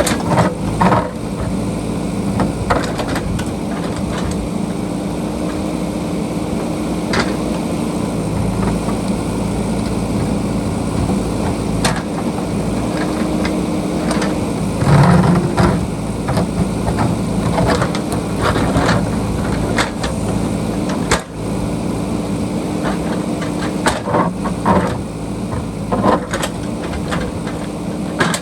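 JCB backhoe loader's diesel engine running steadily, with scattered knocks and scrapes as the bucket works the rocky ground, and a louder stretch about halfway through.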